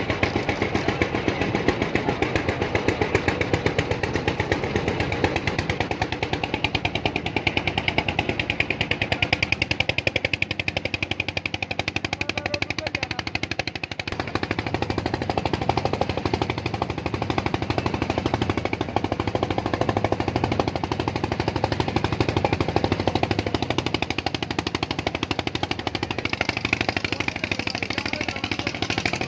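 An engine running steadily with a rapid, even putter, easing off briefly about halfway through before picking up again.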